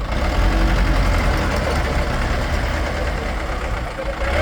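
A heavy engine running steadily, with a strong low rumble.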